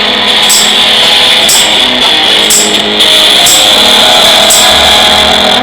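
Fuzz-distorted electric guitar playing a blues riff, with a tambourine struck about once a second; the playing cuts off near the end.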